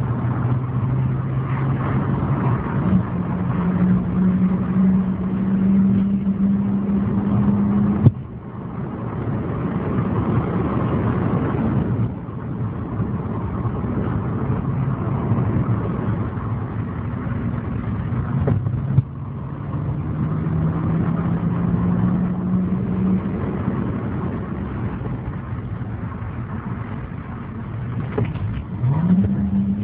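Audi 100's 2.8 V6 engine pulling hard, heard from inside the cabin: its note climbs slowly, then drops off suddenly twice with a click, and near the end the revs sweep quickly up again.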